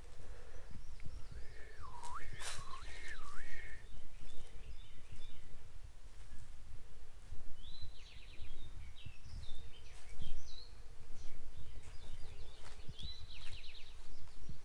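Birds calling over a steady low rumble. A few swooping whistled notes come first, then short high chirps and quick trills in two spells later on.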